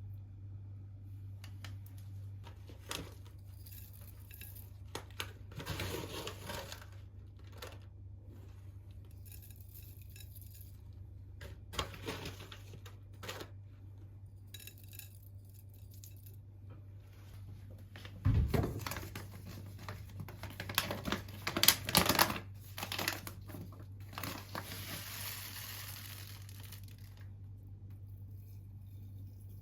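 Packaging being torn open and crinkled by hand while unboxing, in scattered spurts with the busiest and loudest stretch a little past the middle, over a steady low hum.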